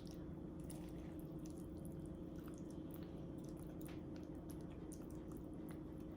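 Faint wet squishing and small clicks of a spoon spreading the sandwich filling mixture onto bread, over a steady low hum.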